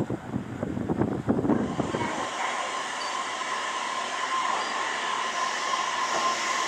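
Wind buffeting the microphone for about two seconds, then, after a cut, steady train noise: an even rushing hiss with a held whine, from the 485-series 'Hana' electric train.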